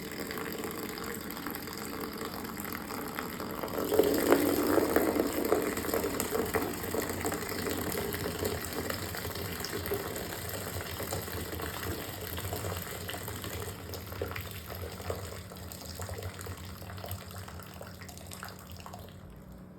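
Water running from a tap, filling a bucket for mopping. It gets louder about four seconds in, then slowly eases off.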